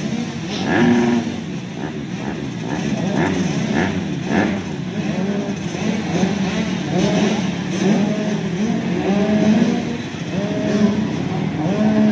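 Several 85cc two-stroke motocross bikes racing together, their engines repeatedly revving up and dropping back in pitch as the riders open the throttle and shift, several engines overlapping.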